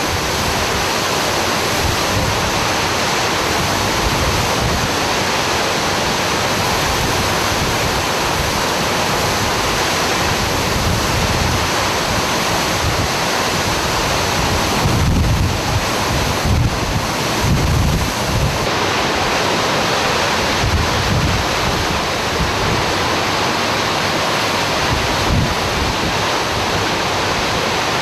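Hurricane-force wind from Hurricane Katrina blowing hard and steadily, with heavier gusts buffeting the microphone about halfway through.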